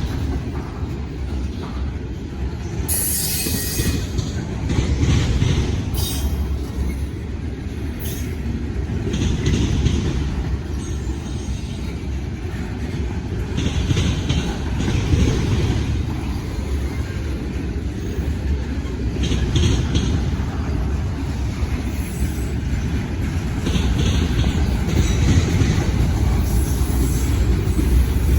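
Freight train cars rolling past with a steady low rumble, their wheels squealing in short high-pitched bursts several times.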